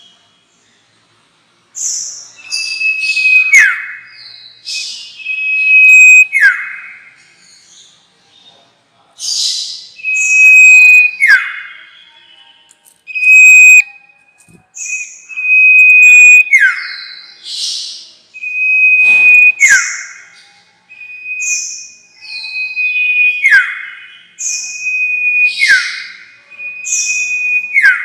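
Sirtu songbird calling in repeated loud phrases: a held high whistle that breaks into a quick downward sweep, with short higher notes in between, coming about every three seconds.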